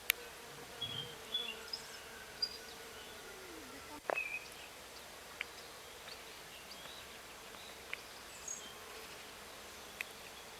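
A flying insect buzzing steadily, its hum sliding lower in pitch just before a sharp click about four seconds in. Short high bird chirps and a few other light clicks come and go.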